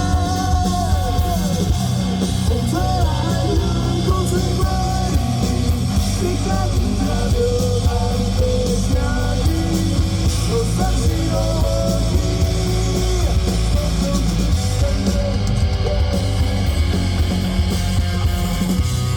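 Live rock band playing, with electric guitar, bass and drums.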